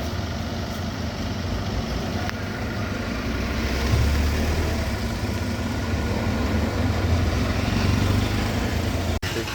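Car engine and road noise, a steady low rumble that grows a little louder about four seconds in and drops out for an instant near the end.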